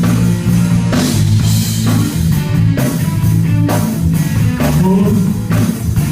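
Live rock band playing an instrumental passage: electric guitar and bass guitar over a drum kit keeping a steady beat.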